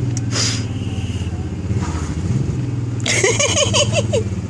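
Steady low engine drone of slow-moving vehicles, heard from inside a car following a motorcycle on snowy roads. About three seconds in comes a short burst of quick repeated pitched sounds.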